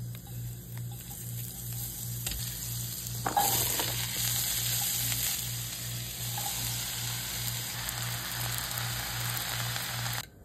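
Hot oil sizzling in a frying pan. The sizzle swells sharply about three seconds in, as chopped bell peppers and onion go into the oil, then stops abruptly near the end.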